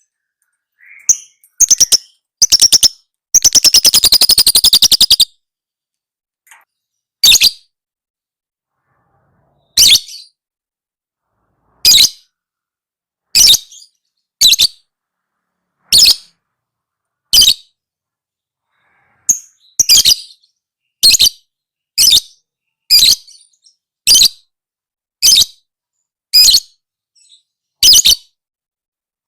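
Lovebird calling: a few seconds in, a fast rattling chatter lasting about two seconds, then single sharp, shrill chirps spaced about one to two seconds apart.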